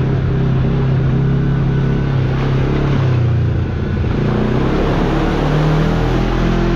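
Kawasaki KRX side-by-side's parallel-twin engine running under way, the engine note dropping about halfway through and climbing again near the end as the throttle changes.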